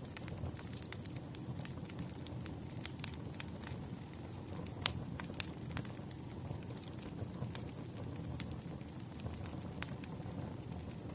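Burning firewood: a steady low rush of flame with irregular sharp crackles and pops from the logs, one louder pop about five seconds in.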